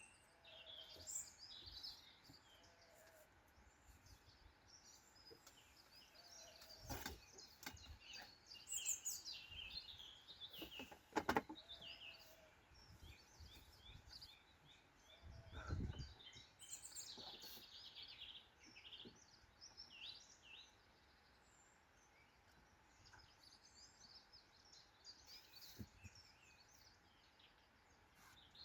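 Faint woodland evening birdsong: several birds chirping and calling. A few sharp knocks come through about a third of the way in, and a duller thud just past the middle.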